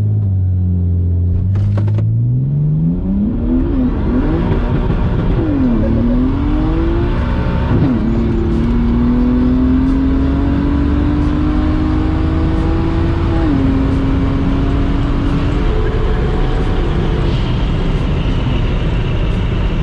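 BMW 135i's single-turbo 3.0-litre straight-six, heard from inside the cabin at full throttle on a quarter-mile run: held at steady launch revs for about two seconds, then climbing hard through the gears, the pitch dropping at each of several upshifts, with road and wind noise building as speed rises.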